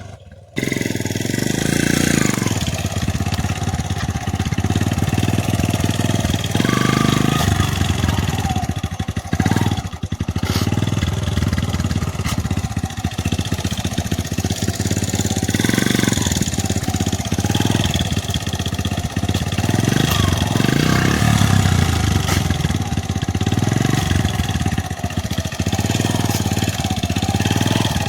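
Motorcycle engine running, its sound swelling and easing every second or two, after a brief gap at the very start.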